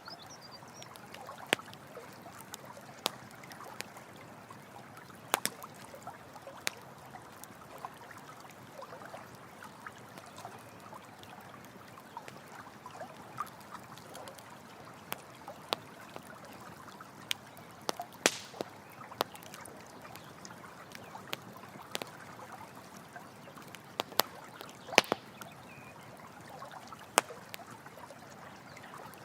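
A campfire crackling, with irregular sharp pops and snaps, a few of them louder, over the steady trickle of a running stream.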